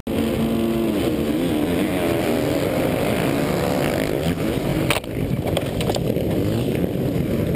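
Dirt bike engine running hard, its pitch rising and falling as the throttle opens and closes. About five seconds in there is one sharp knock, followed by a few lighter knocks.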